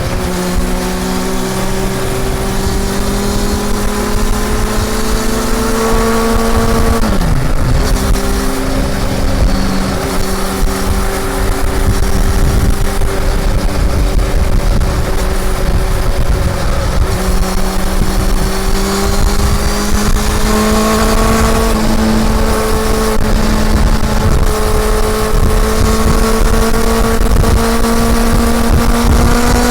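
Honda CB400 Super Four's inline-four engine pulling under way, its pitch climbing steadily, with a quick drop in revs about seven seconds in and again at the very end as it shifts up. Wind rushes on the microphone underneath.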